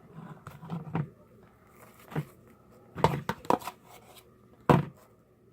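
Spoon scraping and clicking against a bowl as thick slime is stirred: a handful of irregular clicks and short scrapes, the loudest about three and a half and four and a half seconds in.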